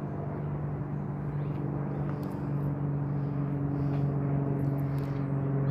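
An engine running with a steady low hum, its pitch dropping slightly about halfway through.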